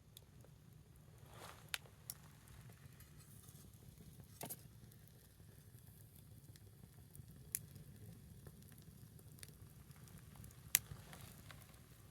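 Small wood fire burning low, with faint sizzling and a few sharp crackling pops spaced several seconds apart, the loudest near the end.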